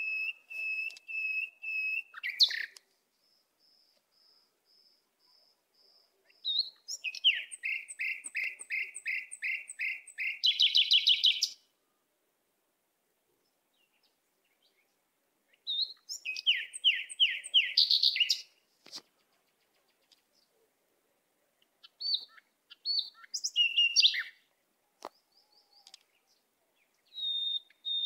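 Birds singing. First comes a run of evenly repeated clear whistled notes. Twice, a series of quickening downward-slurred whistles ends in a fast trill, with quiet gaps and a few shorter calls in between.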